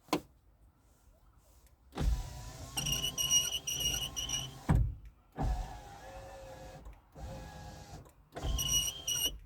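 UAZ Patriot front power window motor running the glass in several short runs, with a loud high-pitched whistling squeal over the motor hum as the glass goes down, and a thump a little before halfway. The squeal on lowering does not come from the glass guides and is not cured by greasing with Litol.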